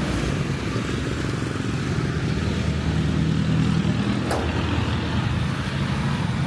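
Road traffic with motor vehicle engines running steadily, and a single sharp click about four seconds in.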